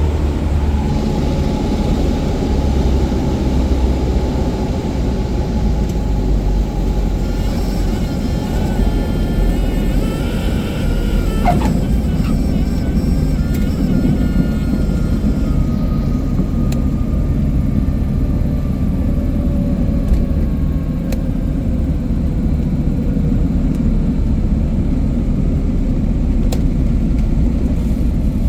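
Cabin noise of a Cessna 177 Cardinal in flight: the piston engine and propeller make a steady, loud drone.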